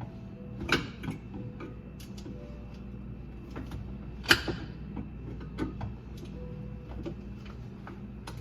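Irregular clicks and knocks of hand tools and metal parts being worked on a garbage disposal under a sink, with a sharp knock about four seconds in, over a steady low hum.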